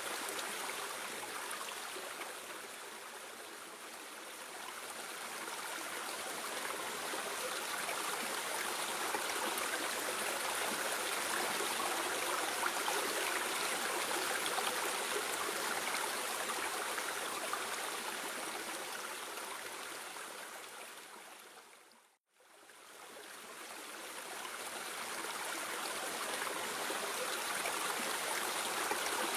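Flowing water of a mountain stream, a steady rushing. It fades out briefly about three-quarters of the way through, then comes back as before.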